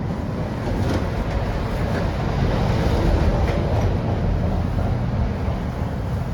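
Tram running along its rails, heard from inside the car: a steady low rumble of wheels and running gear with faint rattles, swelling a little midway.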